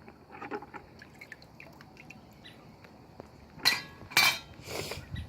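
Metal ceiling-fan parts being handled: a few light clicks, then three louder clinking clatters near the end, with a brief ringing.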